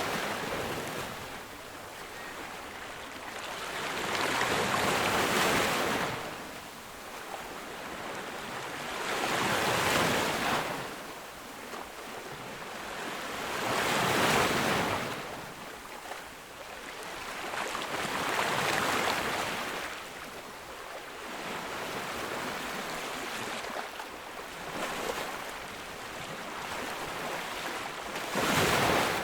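Ocean waves breaking on a beach, a rush of surf swelling and fading about every four to five seconds, with a quieter wash between the breakers.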